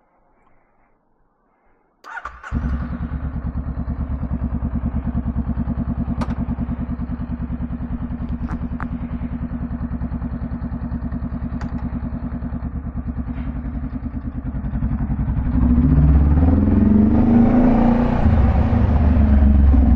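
Honda Rebel 500's parallel-twin engine with a Vance & Hines exhaust, starting about two seconds in and catching at once, then idling with a steady, even pulse. In the last few seconds it is revved, louder, the exhaust note rising and falling.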